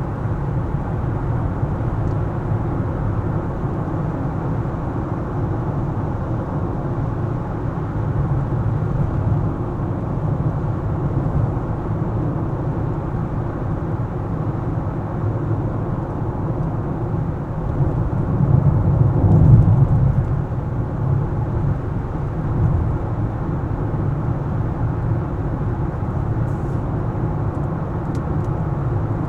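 A car driving on city streets: a steady low rumble of road and engine noise that swells louder for a couple of seconds about two-thirds of the way through.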